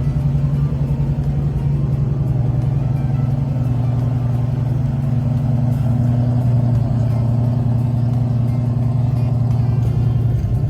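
Dodge Charger's 400 cubic-inch V8 running steadily, with a deep, even pulse and a slight drop in pitch about four seconds in.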